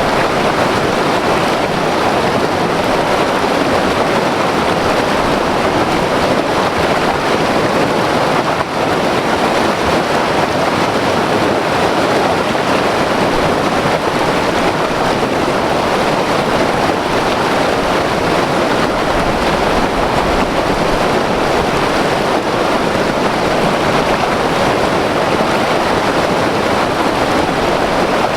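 White-water river rushing over rapids, a loud, steady roar of churning water without let-up.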